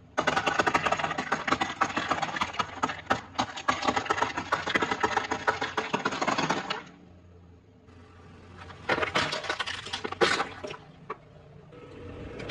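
Close-up crunching of fried food being bitten and chewed: a dense crackle for about seven seconds that stops suddenly, then two shorter bursts of crunching a couple of seconds later.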